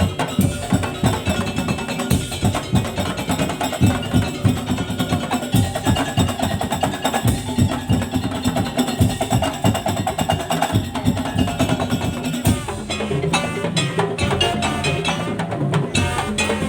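Madurese tong-tong (daul) ensemble playing: wooden slit drums and drums beat out a dense, fast rhythm. The pattern changes about twelve seconds in to more spaced, distinct strikes.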